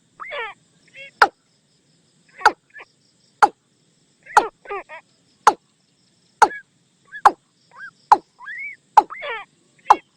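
Watercock calls: a run of about ten sharp, falling notes roughly once a second, with softer rising-and-falling and wavering notes between them, played as a decoy call to lure watercocks.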